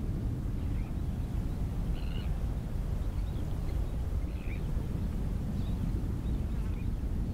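Steady low wind rumble on the microphone, with short high bird calls about once a second over it.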